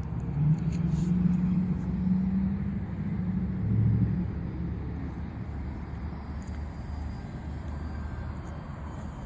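Electric motor and 6x5.5 propeller of a Flite Test Mini Scout RC plane droning in flight, louder over the first four seconds and dropping in pitch near four seconds in as it passes, then fading, over a steady low rumble.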